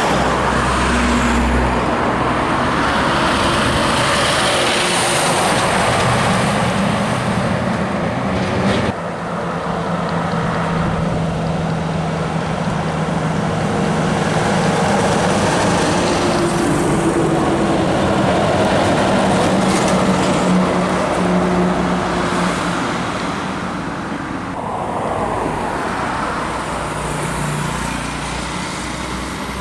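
Heavy diesel trucks driving past under power, with steady engine drone and road noise. The sound changes abruptly about nine seconds in and again near twenty-five seconds, as one truck gives way to another.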